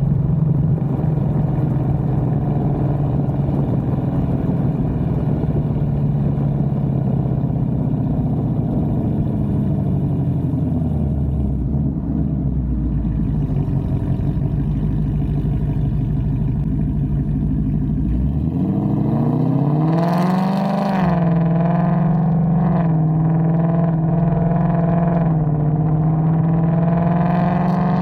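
Ford Mustang GT V8 with aftermarket headers and exhaust, driving: a steady exhaust drone, a quick rise in revs about two-thirds of the way through, and the pitch climbing again near the end as it accelerates.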